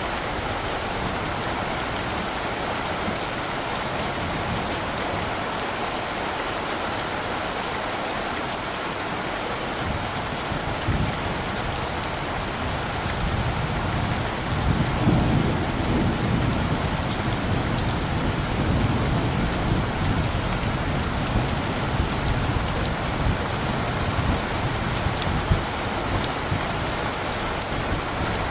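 Steady rain falling, a continuous hiss with many small drop ticks. From about halfway through, a low rumble of distant thunder rises and rolls on under the rain.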